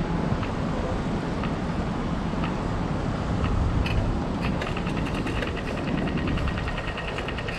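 Riding a bicycle: a steady rumble of tyres and wind. About halfway through, a rapid, even ticking starts, which is the rear freewheel clicking as the bike coasts.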